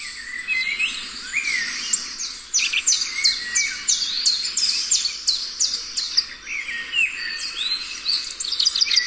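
Several birds chirping and calling: runs of quick, high, down-sweeping chirps, about two a second, mixed with lower rising whistles.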